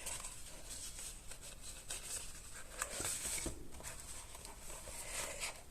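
Light rustling and small clicks of cardstock being handled and folded, with a cluster of louder taps around the middle.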